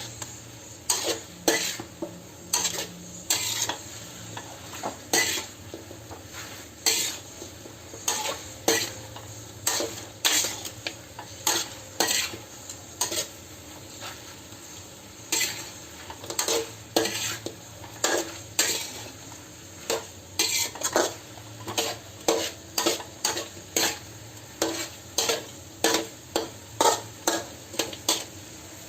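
Chicken and pineapple stir-frying: a spatula repeatedly scraping and knocking against the pan, about once or twice a second, over a steady sizzle.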